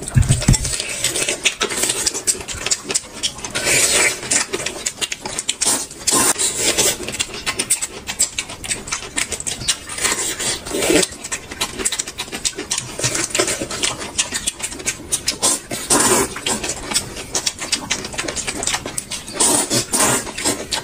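Close-miked eating: a dense run of wet chewing and smacking clicks, with louder bites every few seconds.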